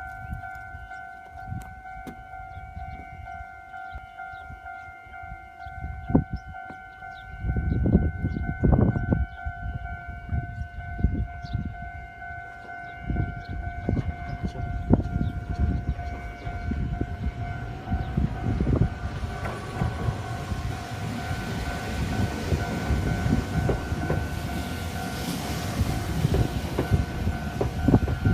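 Level-crossing warning bell ringing steadily on two tones while a Nagano Electric Railway local train approaches. From about seven seconds in comes a low rumble with a clatter of wheel knocks, and the train grows louder in the last third as it runs into the station.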